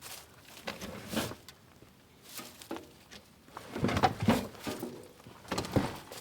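Irregular clunks, knocks and scraping from work fitting a bench seat into a truck cab, with the loudest knocks about four seconds in.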